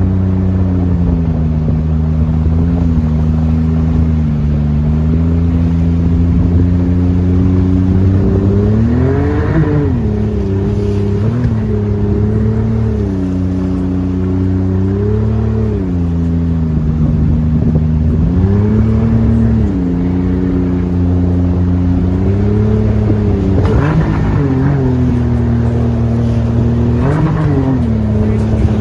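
Mercury jet outboard on an aluminum jet boat running under way, its engine pitch rising and falling again and again as the throttle is worked, with several quick surges in revs through the middle and later part. A steady hiss runs underneath.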